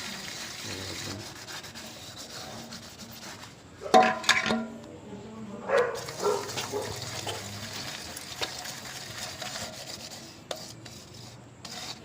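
Utensils being scrubbed with a dishwash bar: a steady rubbing and scouring, with two louder clatters about four seconds in and again near six seconds.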